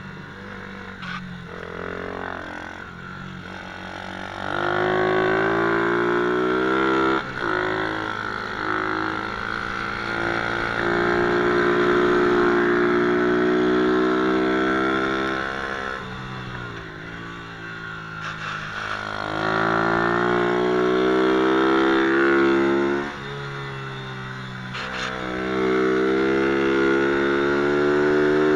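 MRF 120cc pit bike's single-cylinder four-stroke engine under riding, revving up and holding high four times, with the revs dropping back in between as the throttle is eased off.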